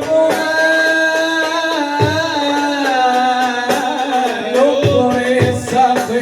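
Arabic nasheed: a voice holds long, ornamented sung notes over hand-drum beats.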